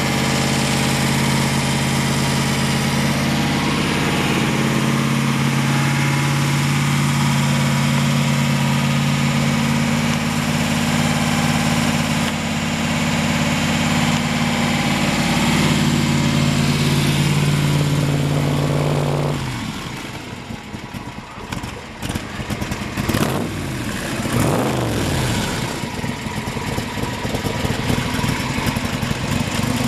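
Superformance Cobra's 514-cubic-inch Ford big-block V8 idling steadily through chrome side pipes. About two-thirds of the way in the engine note drops away and turns quieter and wavering for several seconds, then the steady idle comes back near the end.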